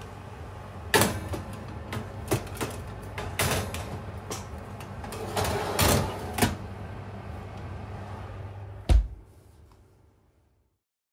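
A handful of sharp knocks and clacks, like things being handled or a door or cupboard being shut, over a steady low hum. The sound fades out to silence near the end.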